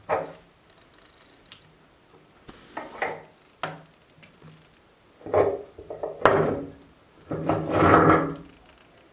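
Meat grinder crushing a Fuse chocolate bar: irregular bursts of crunching and grating, short at first, then longer and louder in the second half.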